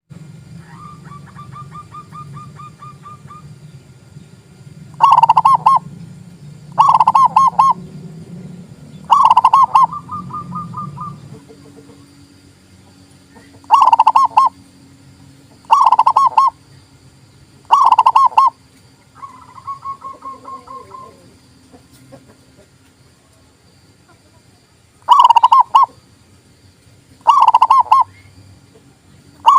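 Zebra dove (perkutut) cooing: loud short phrases of rapid staccato coos, repeated about every two seconds in runs of two or three. Softer, thinner trilled coos come between them.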